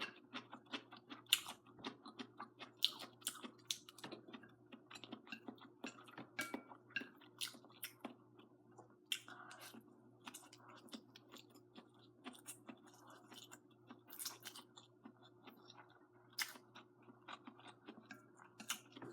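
A person chewing a mouthful of braised noodles with string beans close to the microphone: soft, irregular chewing with many small mouth clicks, over a faint steady hum.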